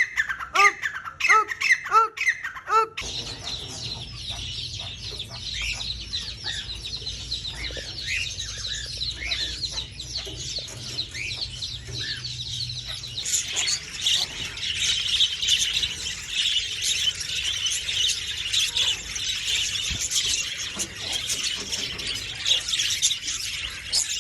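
A bird repeats a pitched, squawking call two to three times a second. After an abrupt cut, a dense chorus of many small birds chirps over a low hum, and the chorus grows louder about halfway through.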